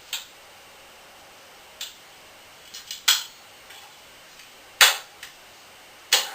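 A handful of sharp knocks, about five, irregularly spaced with quiet gaps between, the loudest a little past the middle.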